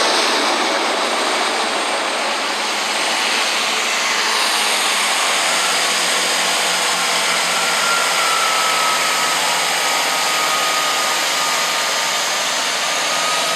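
A train running through the station close by: a loud, steady rush of engine and wheel noise that holds throughout, with a faint high tone sliding slightly lower midway.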